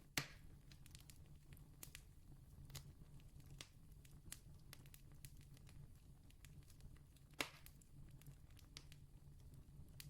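Distant campfire crackling: scattered small snaps and pops, with two louder pops, one just after the start and one about seven seconds in, over a faint steady low rumble.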